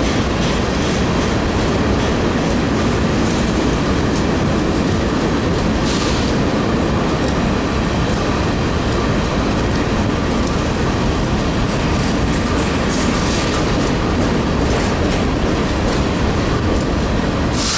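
Covered hopper cars of a KCS grain train rolling past close by: a loud, steady rumble with wheels clicking over the rail joints, and brief high hissing squeals about six seconds in and again near the end.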